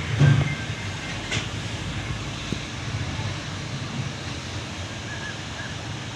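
Steady low rumble, with a sharp knock just after the start and another about a second later.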